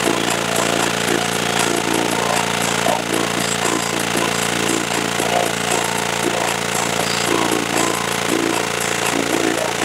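A machine running steadily with a rapid, even rattle, under a background of people's voices.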